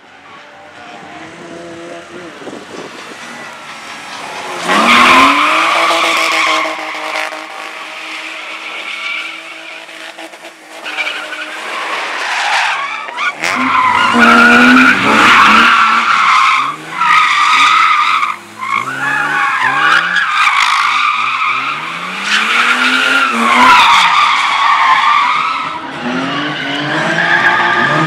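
A competition car's engine revving up and dropping back again and again as it is driven through a slalom course, with tyres squealing through the turns. It grows from faint to loud over the first five seconds as the car comes close.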